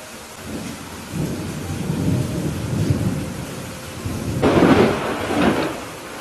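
Thunder rumbling over steady rain: a low rumble builds, then a louder crash of thunder about four and a half seconds in, dying away near the end.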